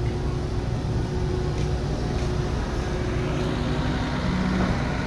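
Diesel engine of heavy construction machinery running steadily, with a low even drone.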